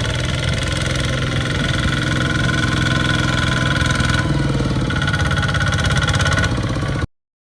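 Small farm tractor's engine running steadily with a rapid, even beat, cutting off abruptly about seven seconds in.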